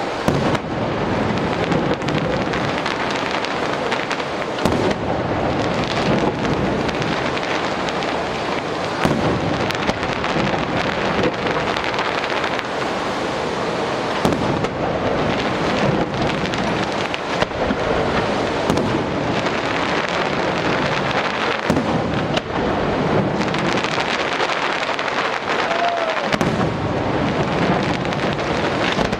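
Fireworks display: a continuous, dense barrage of many small bangs and crackles, with no pause.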